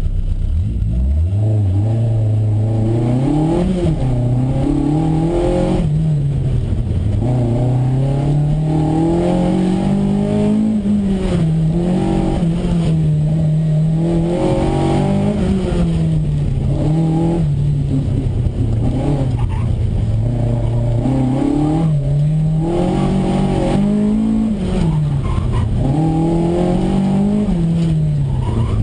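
A 1973 Toyota Celica's four-cylinder engine, heard from inside the cabin under hard driving. Its revs climb and drop over and over as the driver accelerates and lifts off, with quick falls in pitch between pulls.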